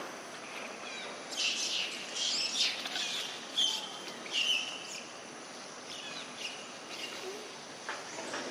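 Birds chirping: a run of short, high chirps and brief whistled notes over a steady outdoor hiss, busiest in the first half.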